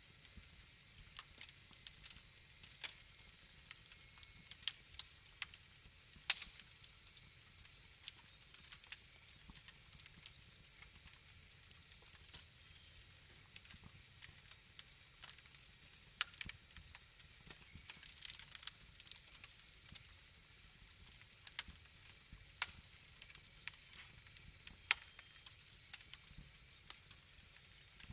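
Wood fire crackling, with irregular sharp pops and snaps, a few louder than the rest, over a faint steady hiss.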